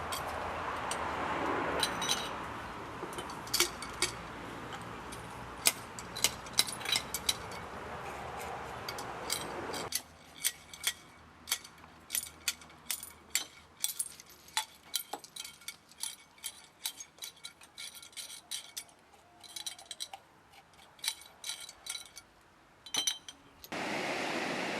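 Many irregular sharp clinks and clicks of small hard objects knocking together, over a steady background rush that stops abruptly about ten seconds in.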